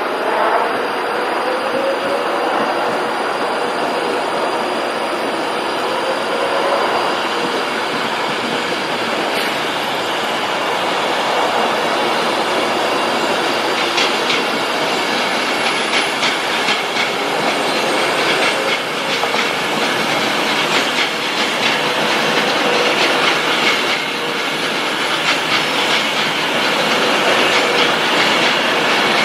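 A train running along the tracks through a station, a steady rumble of wheels on rail. From about halfway through, its wheels click over the rail joints again and again.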